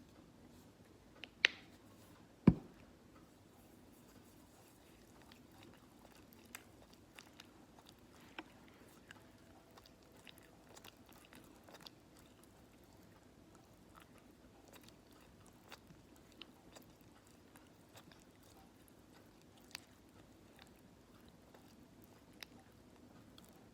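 Close-up hand-care handling sounds: two sharp clicks or taps near the start, then faint scattered crackles and ticks.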